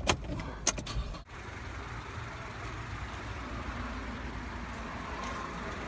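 A car running with steady engine and road noise, after a few short knocks in the first second.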